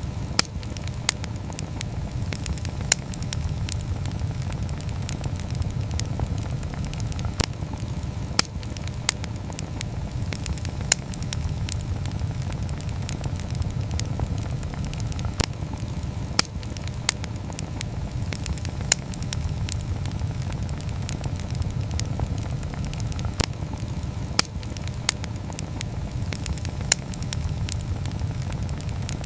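Wood campfire burning: a steady low rumble of the flames with irregular sharp crackles and pops from the burning wood.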